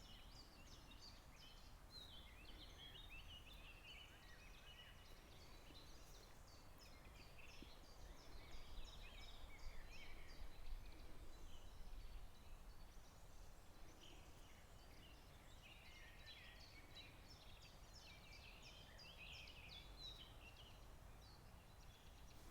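Faint birdsong in woodland: several small birds chirping and trilling in quick, repeated high notes, a little louder around the middle.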